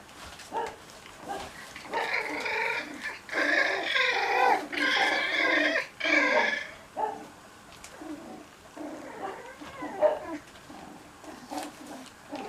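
Cocker spaniel puppies vocalizing as they play: a run of loud, drawn-out, high-pitched cries from about two seconds in, lasting several seconds, then softer short sounds and light taps.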